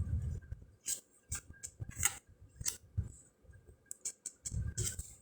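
Round cardboard fortune cards being flipped through by hand: irregular sharp flicks and snaps of card stock, with soft taps as cards are laid down.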